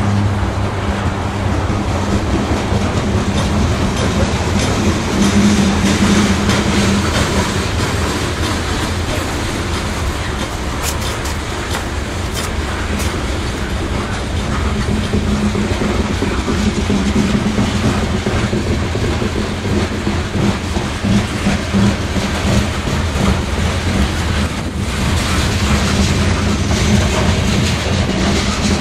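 Canadian Pacific coal train's cars rolling past: a steady rumble of steel wheels on rail, with the clickety-clack of wheels passing over rail joints.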